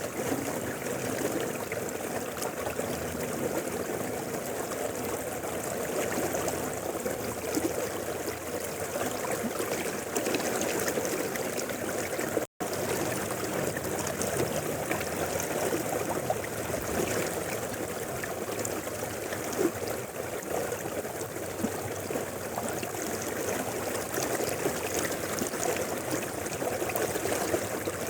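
A mountain river flowing steadily over rocks, rushing and burbling. The sound cuts out for an instant about halfway through.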